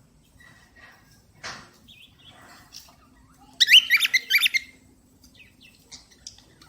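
Cockatiel chirping: a quick burst of rapid, short rising notes lasting about a second midway through, with faint scattered chirps around it.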